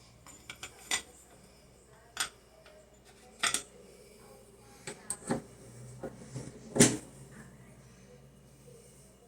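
Scattered sharp metallic clinks and knocks of hard objects being handled, about a dozen irregular strikes with the loudest near seven seconds in.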